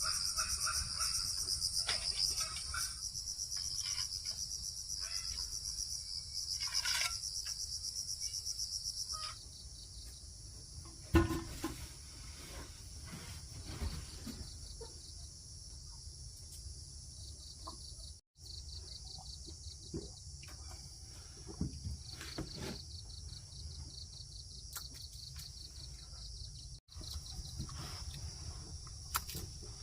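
Insects calling in a steady, high, rapidly pulsing chorus, louder over the first nine seconds. Scattered knocks sound now and then, the loudest about eleven seconds in.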